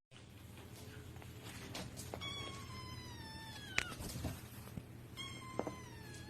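A cat meowing twice: two long, drawn-out meows that fall in pitch, the second starting about three seconds after the first, with a few faint clicks and knocks between them.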